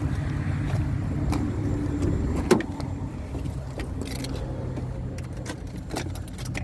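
A vehicle engine idling steadily, with a few small clicks and one sharp click about two and a half seconds in, after which the engine's pitch drops slightly.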